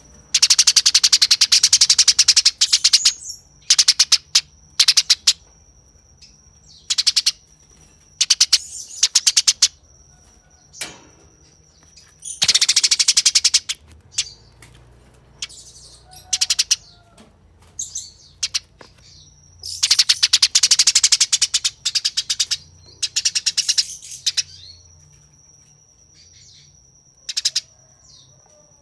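Eurasian tree sparrows giving harsh, very fast chattering fight calls in repeated bursts of about half a second to three seconds, with short gaps between them. The longest bursts come at the start, about halfway through, and around two-thirds of the way in.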